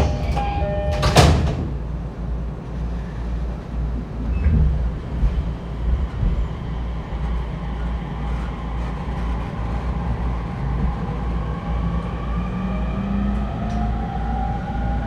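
Inside an E231-1000 series commuter car: a door chime ends and the sliding doors shut with a loud thud about a second in. A low steady hum follows. From about nine seconds in, the train pulls away with a whine from its traction motors that rises in pitch.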